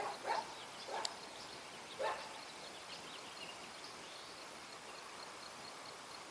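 A few faint short animal calls, bark-like, in the first two seconds. After them comes a quiet outdoor background with a thin, high, repeating chirp.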